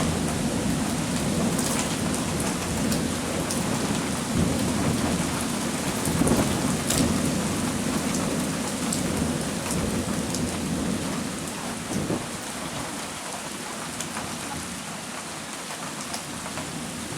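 Heavy thunderstorm rain with a low rolling rumble of thunder that dies away about two-thirds of the way through, and scattered sharp raindrop ticks.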